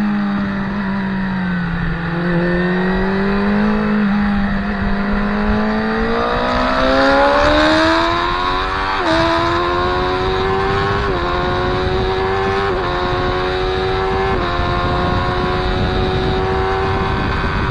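Motorcycle engine on track, heard from an onboard camera: the pitch dips briefly, then rises steadily as the bike accelerates hard. The pitch then climbs on with four short notches, typical of quick upshifts, and holds level near the end.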